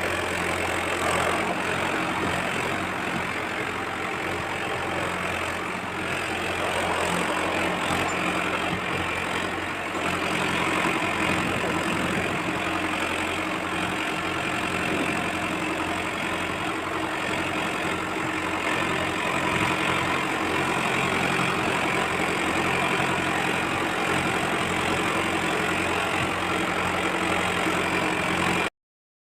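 A steady engine sound like a tractor engine idling: an even low hum with a rough, knocking edge. It cuts off abruptly near the end.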